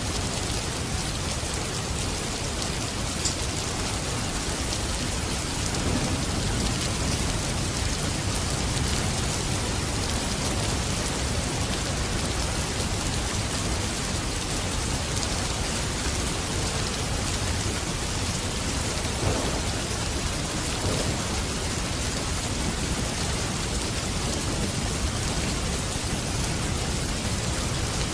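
Steady rain falling, a dense even hiss of drops on surfaces, with a low rumble that swells about six seconds in.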